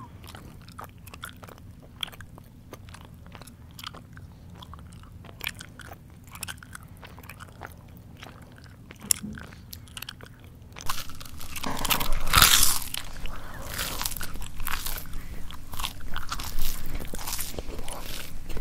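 Close-miked mouth chewing: soft, clicky, smacking chews for about the first ten seconds, then louder, dense crunching of crisp food from about eleven seconds in, loudest soon after.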